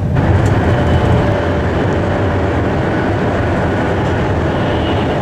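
High-speed train noise: a steady low rumble and hiss with faint steady tones above it. It grows fuller and a little louder suddenly at the start.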